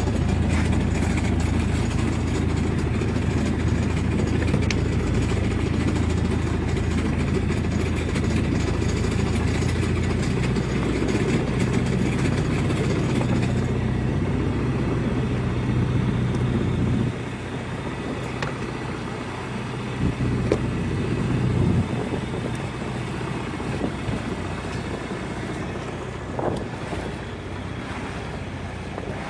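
Boat engine running steadily under way while trolling, then eased back to a lower, quieter run about two-thirds of the way through.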